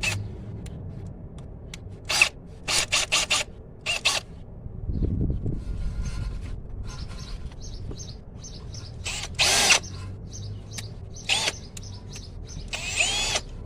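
Power drill handled and fitted with a left-hand drill bit: a run of sharp clicks, then a few short bursts of the drill, one with a gliding whine near the end.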